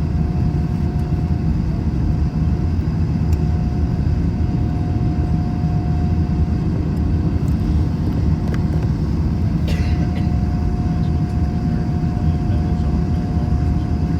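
Steady low rumble of an Airbus A321 heard inside the passenger cabin, with a constant hum tone over it. There is a click a little past halfway and a short rattle about ten seconds in, where the hum briefly drops out.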